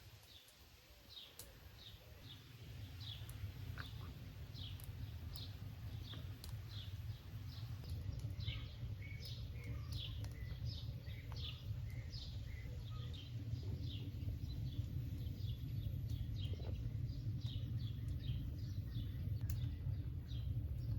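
A small bird calling over and over: short, high, downward chirps about twice a second. Underneath is a low, steady rumble that grows louder over the first few seconds.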